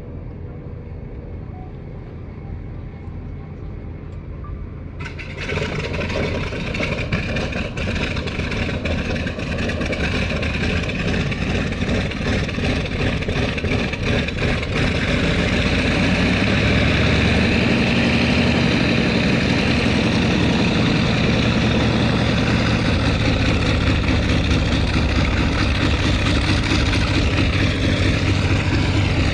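A Wright R-3350 Duplex-Cyclone 18-cylinder radial aircraft engine catches about five seconds in, after a low rumble. It fires raggedly with irregular pops for about ten seconds, growing louder, then settles into a steady, louder run.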